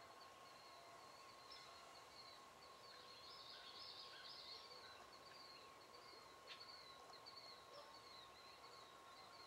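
Near silence with faint bird calls: short high-pitched calls repeating throughout, busiest around four seconds in, over a steady faint hum. A single click about six and a half seconds in.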